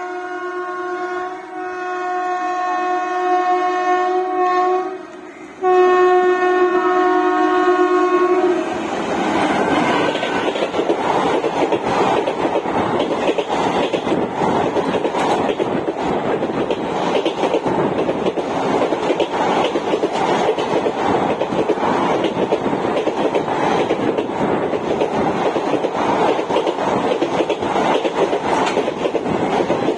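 Indian Railways WAP-4 electric locomotive sounding its horn as it approaches at speed. There is a short break about a second and a half in and a longer pause near five seconds, then a last blast that cuts off as the locomotive passes. The coaches of the express then rush past with a loud, steady rolling noise and rapid wheel clicks over the rail joints.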